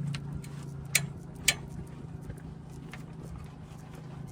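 Ford E350 van's rear leaf-spring suspension giving a little creak and a few clicks as the van is pushed up and down by hand, with two sharp clicks about one and one and a half seconds in. A steady low hum runs underneath.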